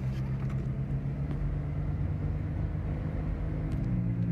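Car engine and road noise heard from inside the cabin while driving: a steady low hum that shifts slightly in pitch near the end.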